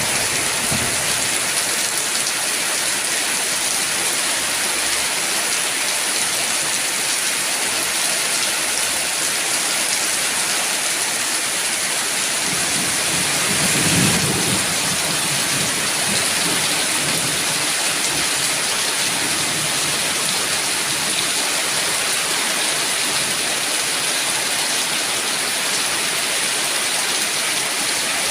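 Heavy rain falling steadily, with a low roll of thunder about halfway through.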